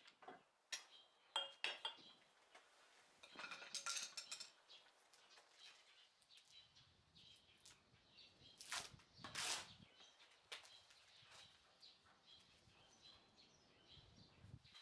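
Faint metal clinks and taps, some ringing briefly, scattered irregularly, with a cluster about four seconds in and the two loudest about nine seconds in.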